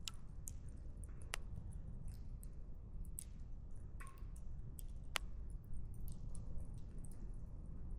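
Wood campfire crackling: irregular sharp pops and snaps of burning firewood over a low, steady rumble, with a brief hiss about four seconds in.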